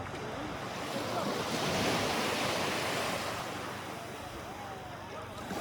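Sea waves washing in on a shallow beach: a broad rush of surf that swells about two seconds in and then slowly falls away.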